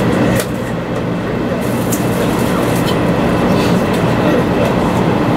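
Running noise of a 500 Series Shinkansen heard inside the passenger car: a steady rumble with a few faint clicks.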